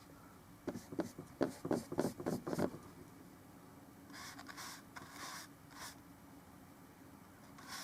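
Paintbrush working oil paint on the painting surface: a quick run of about eight short dabbing strokes in the first few seconds, then a few softer scrubbing strokes with a light hiss.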